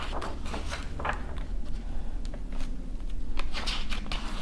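Paper pages of a book being turned and handled: scattered soft rustles and light taps, with a longer rustle about three and a half seconds in.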